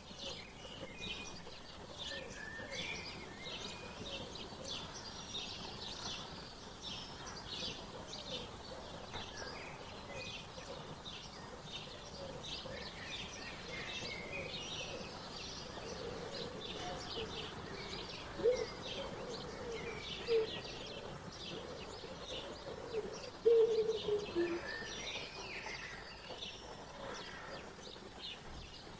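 Songbirds chirping and twittering continuously, many short high notes overlapping, over steady outdoor background noise. Lower-pitched bird calls run beneath them, and a few of these stand out loudest, in the second half.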